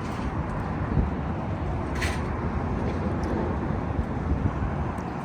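Steady outdoor background noise with a low rumble, a soft knock about a second in and a brief hiss about two seconds in.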